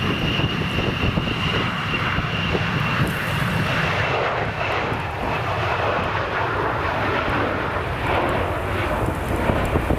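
Jet airliner engines running loud as the aircraft passes, with a high whine that fades about halfway through. Low wind buffeting on the microphone runs underneath.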